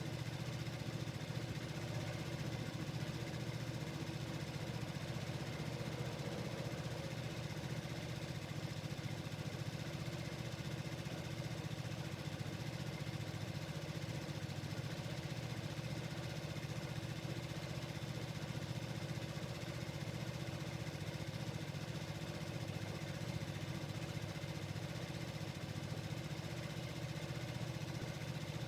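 Vespa Sprint 150 scooter's single-cylinder four-stroke engine idling steadily while stopped.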